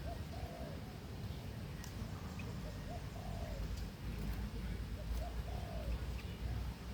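Birds giving short, low, arched call notes, repeated every second or so, over a steady low rumble.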